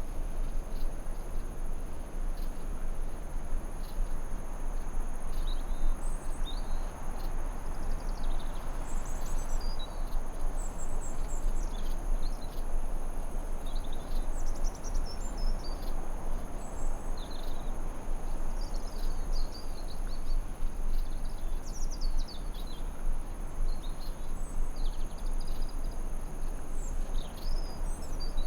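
Forest ambience: a continuous high-pitched insect drone in two steady tones over an even background rush, with many short bird chirps and twitters scattered throughout.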